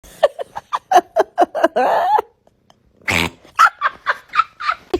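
A domestic cat giving a rapid string of short, pitched calls, about five a second, then one longer call. After a pause comes a short harsh noisy burst, and then more short calls.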